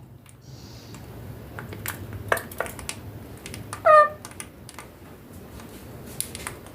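Indian ringneck parakeet giving one short call that slides down in pitch, about four seconds in, among scattered light clicks and taps.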